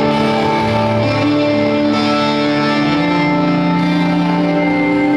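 Live country band playing a song intro, led by guitar, heard loud through a fan's recording.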